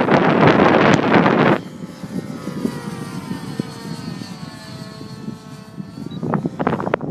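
Nitro RC helicopter's two-stroke glow engine and rotor running in flight, its pitch drifting slightly up and down. Heavy wind buffeting on the microphone drowns it for the first second and a half and again near the end.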